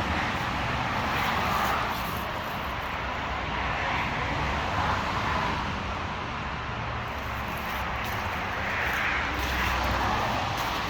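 2017 Yamaha FZ-10's inline-four engine idling steadily during its warm-up.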